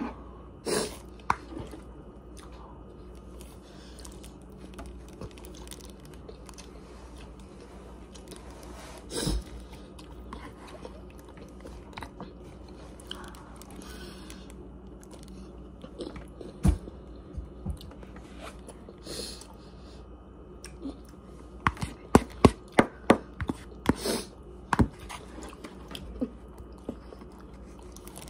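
Close-up chewing of a mouthful of rice and chicken, with scattered sharp clicks and taps of a metal fork on the plate and a quick run of clicks about three-quarters of the way through.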